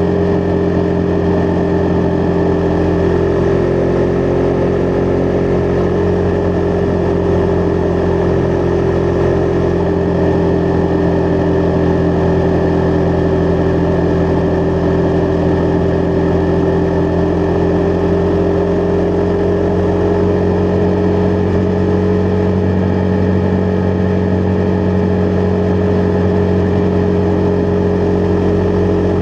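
Husqvarna Vitpilen 401's single-cylinder engine running under way at nearly constant revs, a steady engine note that drifts only slightly in pitch.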